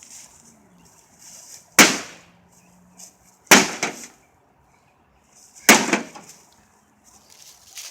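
Axe striking a microwave oven's metal casing three times, about two seconds apart, each blow a sharp crack with a short ringing tail.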